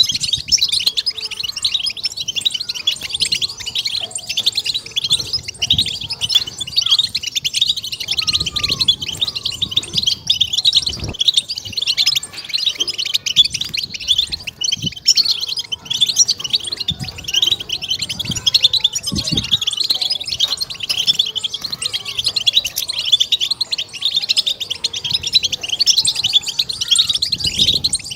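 European goldfinch twittering song: a dense, unbroken run of quick high chirps and trills.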